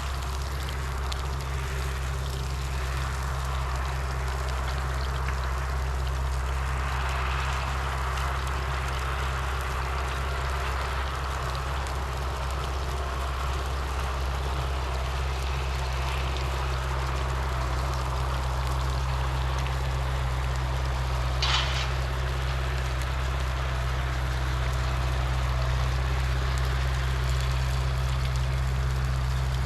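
An engine running steadily, a low unbroken drone, with one brief high chirp or squeak a little after twenty seconds in.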